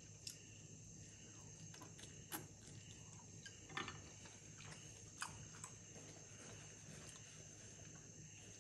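Near silence: faint mouth sounds of someone chewing noodles and a few small clicks, over a steady faint high-pitched hum.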